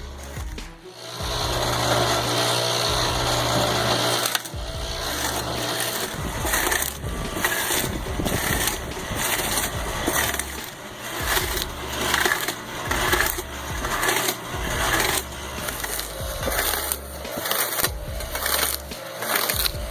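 Firewood processor cutting and splitting logs, with wood cracking and crunching, under background music with a steady beat.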